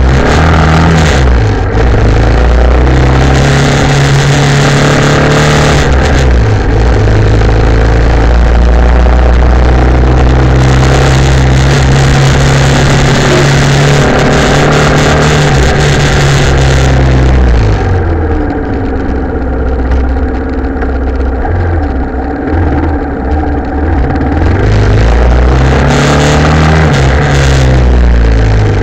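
Italika TC250 motorcycle's single-cylinder engine running while riding, with wind rushing over the microphone; its pitch climbs and drops as the throttle and gears change. A little past halfway it falls to low revs and the wind noise fades, then it picks up again near the end.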